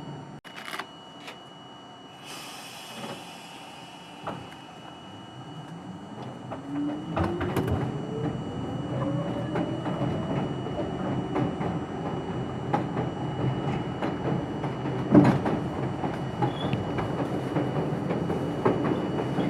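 R42 New York City subway train starting away from a stop: a short hiss of air about two seconds in, then the traction motors whine, rising in pitch as the train picks up speed. Wheel and track knocks build up under it.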